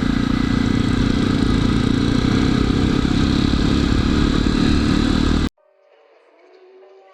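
Jawa motorcycle's single-cylinder engine running steadily under way, with wind and road noise, cut off abruptly about five and a half seconds in; faint background music follows.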